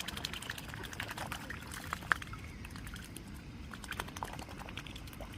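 Young swans feeding, their bills dabbling and nibbling with a run of irregular wet clicks and small splashes, over a low rumble.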